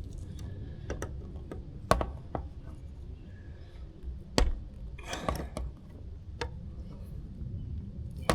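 Scattered sharp clicks and knocks of tractor parts being handled and fitted by hand, the loudest about two seconds in and about four and a half seconds in, with a short cluster soon after. A low steady rumble sits underneath.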